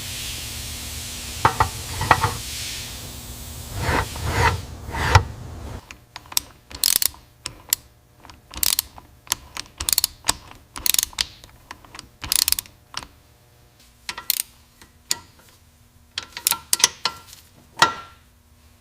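Hand tools working on car parts: irregular sharp metallic clicks and clanks, some in quick ratchet-like clusters, over a steady hiss that stops about six seconds in.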